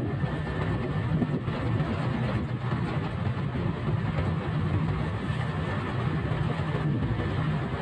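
Motorcycle engine running steadily under way, with an even rush of road and wind noise.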